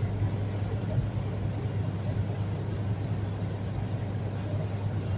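Steady road and engine noise inside a car's cabin at highway speed, with a constant low drone.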